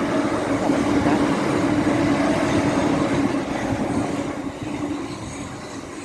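A 12-car electric multiple unit train, made up of Class 377 and Class 387 Electrostar units, running past with a steady hum and rail noise. It fades away over the last couple of seconds as the train draws off.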